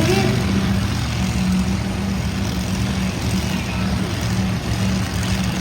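Large vehicle engine running steadily at a low, even pitch, with background noise over it.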